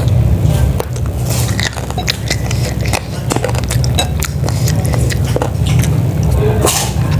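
Close-miked eating of chicken-feet soup: chewing and biting, with many short sharp clicks over a steady low rumble.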